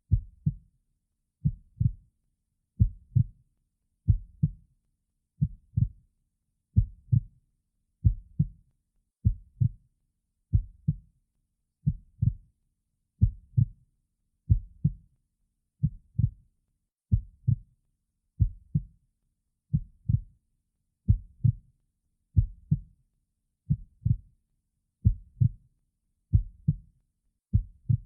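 A slow heartbeat: low paired lub-dub beats repeating steadily, about one pair every second and a third.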